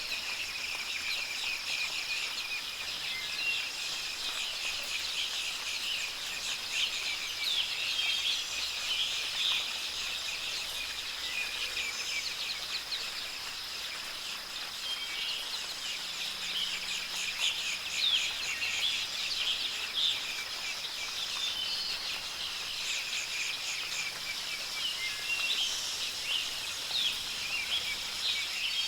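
Many birds chirping and trilling busily, call after call, over a steady high-pitched hum.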